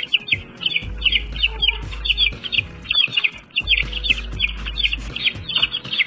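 Baby chicks peeping: a steady run of short high-pitched peeps, each falling in pitch, about three a second, over background music.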